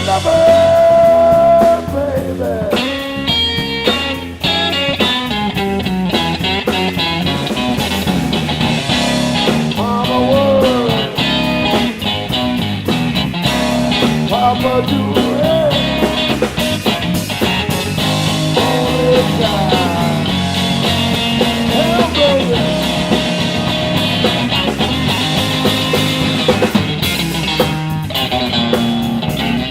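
Live blues-rock trio playing an instrumental passage: electric guitar soloing with bent, gliding notes over bass and drums.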